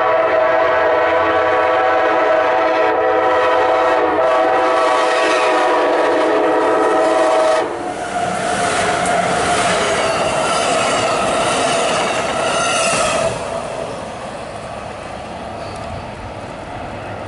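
Siemens SC-44 Charger diesel-electric locomotive's horn sounding one long, steady chord for about eight seconds as the train approaches. Then the locomotive and its passenger cars rush past with wheels clicking over the rails, and the sound drops to a fainter rumble about thirteen seconds in.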